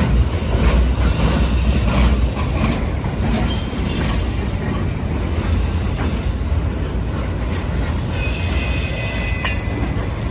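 Freight cars of a long train rolling past, a heavy steady rumble with occasional clanks from the wheels and couplers. A high wheel squeal rises about eight seconds in.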